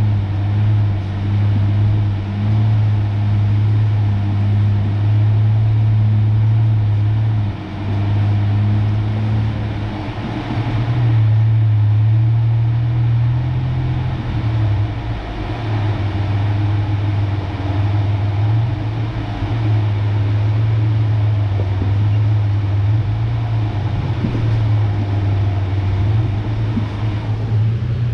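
1993 Ford Ranger pickup's engine running at low trail speed: a steady low hum that steps up and down in pitch several times as the throttle changes, over a constant rush of road noise.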